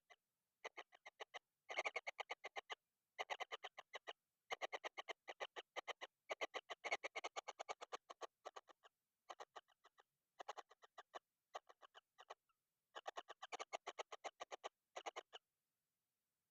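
Kingfisher nestlings giving rapid, rattling begging calls, about ten pulses a second, in repeated bouts separated by short pauses. They are calling for food from hunger. The calls stop near the end.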